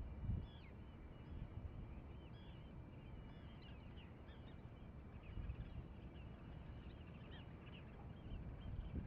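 Many short, quick bird chirps throughout, over a steady low rumble of wind on the microphone.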